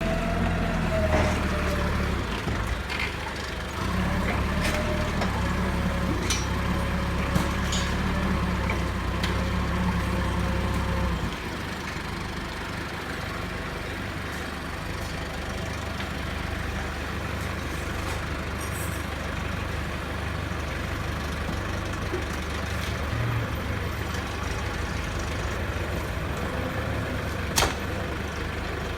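A heavy machine's engine running steadily, quieter from about eleven seconds in, with scattered metallic clinks and one sharp metal knock near the end, as a car engine is removed.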